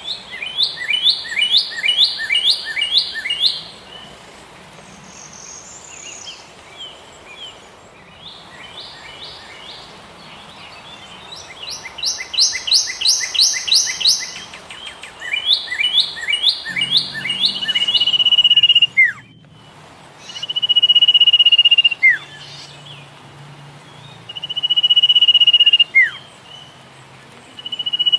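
Birds singing: bursts of rapid chirping trills, then a long steady whistled note ending in a quick downward slide, repeated every three to four seconds.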